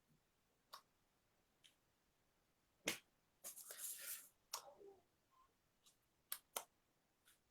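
Mostly quiet, broken by several short sharp clicks or taps, the loudest about three seconds in and a quick pair near the end, with a brief rustling noise just after the first loud click.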